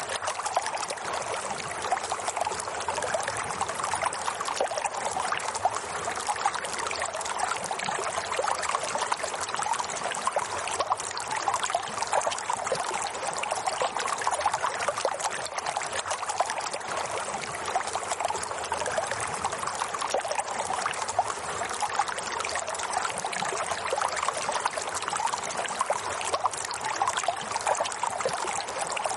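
Running water trickling and splashing steadily, with a dense, constant flicker of small splashes.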